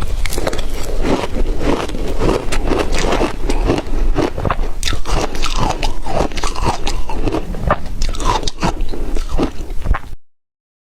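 Shaved ice, wet from dipping in water, being bitten and chewed: dense, irregular crunching that cuts off to dead silence near the end.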